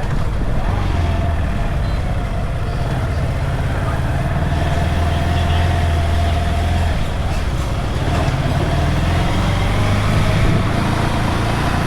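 Wuyang-Honda 190 motorcycle's single-cylinder engine running steadily while riding, with road and wind noise over it.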